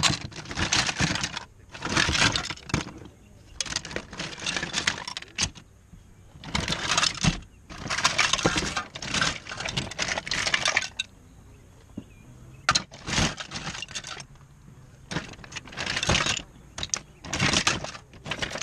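Loose plastic action figures and toy pieces clattering and rattling against each other as hands rummage through a tote full of them, in irregular bursts with short pauses.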